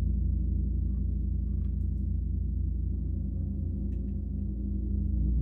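A gong sounding a deep, sustained, pulsing hum, dipping a little midway and swelling again near the end.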